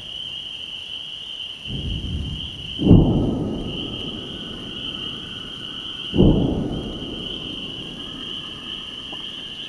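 Thunder rolling in twice, with a sharp crack about three seconds in and another about six seconds in, each rumbling away over a couple of seconds. Under it, a steady high-pitched chorus of spring peepers.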